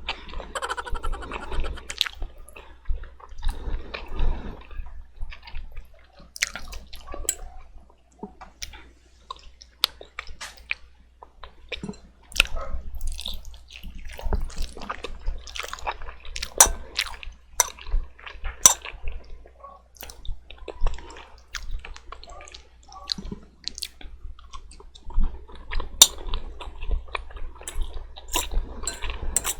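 Close-up eating sounds of a person chewing sticky jajangmyeon (black bean sauce noodles): wet, squishy chewing with many small, irregular mouth clicks.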